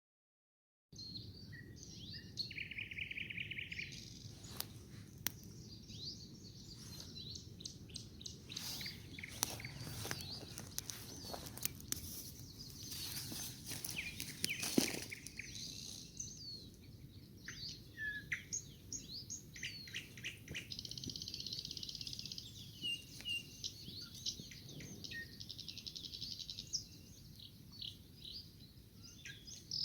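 Songbirds singing, several overlapping songs of chirps, trills and warbled phrases, starting about a second in.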